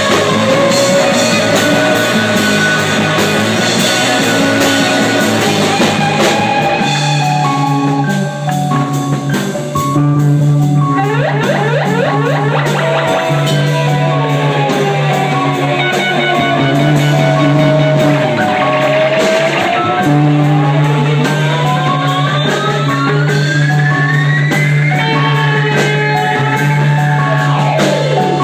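Rock music played by a band, with drums and a held low note under long sliding melodic notes, one of which rises slowly over several seconds in the second half.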